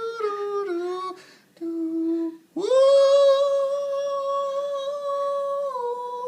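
A voice humming long held notes: a note that steps down twice, a short lower note about two seconds in, then one long higher note held for about three seconds that dips slightly near the end.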